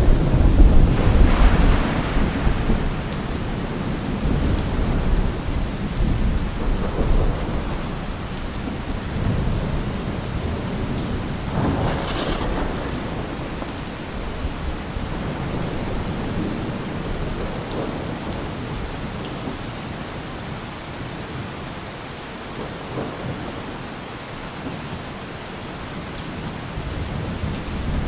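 Thunderstorm: steady heavy rain over rolling thunder. A loud thunderclap breaks at the start and rumbles away over many seconds, a second peal swells about twelve seconds in, and a fresh loud rumble begins at the very end.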